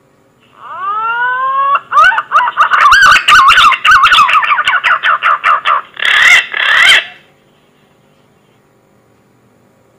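Punai (green pigeon) lure call: a rising whistle, then a fast run of warbling whistled notes lasting about five seconds, with crackling clicks through it. It stops about seven seconds in, leaving a faint hiss and hum.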